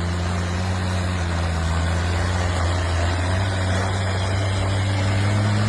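A motor vehicle's engine running steadily with a low hum, its pitch rising slightly about halfway through.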